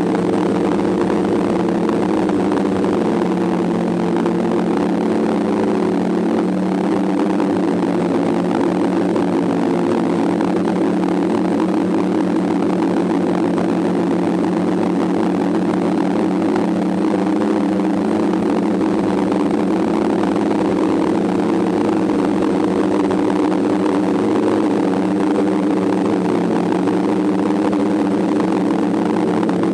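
A DJI F550 hexacopter's six electric motors and propellers running steadily in flight, a close, even multi-tone drone with slight wavering in pitch as the craft holds and adjusts its position, heard from the camera mounted on the aircraft.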